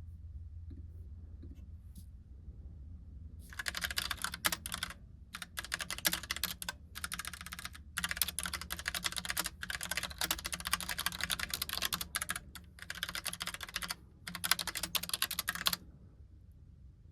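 Typing on a Logitech POP Keys typewriter-style mechanical keyboard: rapid key clicks in runs with short pauses. It starts about three seconds in and stops shortly before the end, over a low steady hum.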